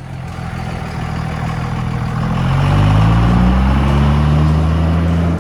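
Tow vehicle's engine accelerating as it pulls away with a loaded trailer. Its pitch and loudness rise over about three seconds, then hold steady until the sound cuts off abruptly at the end.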